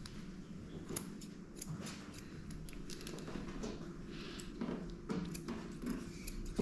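Grooming scissors snipping through a dog's matted coat in short, irregular cuts.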